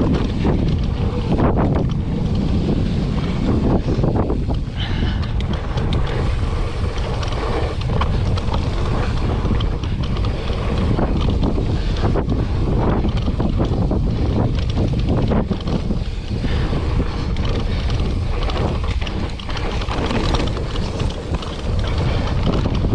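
Wind buffeting the microphone on a mountain bike descent, over the continuous rumble of tyres on a dirt trail and frequent short knocks and rattles from the bike on rough ground.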